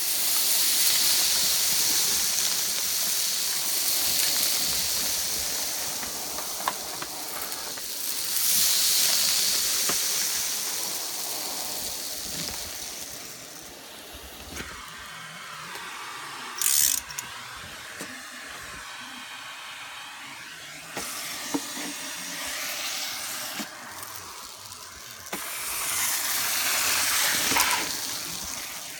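Homemade central vacuum powered by a Miele Titan vacuum, running with air hissing through the hose. The hiss swells and eases several times, with a brief loud burst about 17 seconds in.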